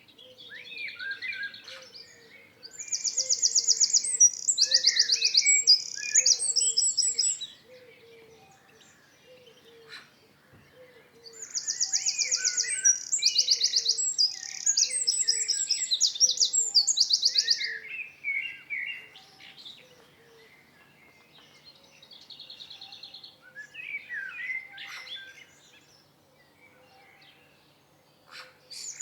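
Songbirds singing: long bursts of fast, high trilled notes twice, with softer chirps between them and a quieter third bird late on.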